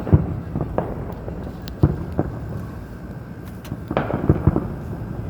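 Distant consumer fireworks exploding: about seven sharp bangs and pops at uneven intervals, with three in quick succession about four seconds in.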